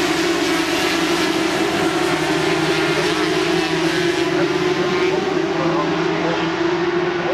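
Engines of 400 cc supersport race motorcycles running at steady high revs, holding one sustained engine note.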